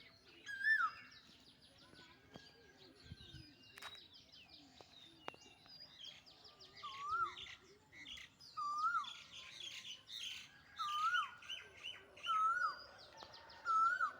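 Birds chirping. From about halfway through, one bird repeats a short call that rises and drops in pitch about every second and a half, with fainter, higher chirps around it.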